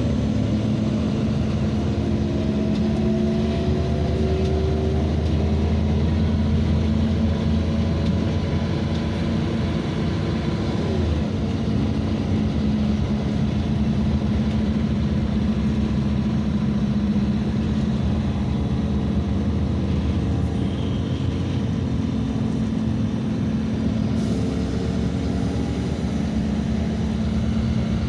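NEST city bus under way, heard on board: a steady engine and road drone. A whine rises in pitch as the bus gathers speed in the first few seconds and again near the end.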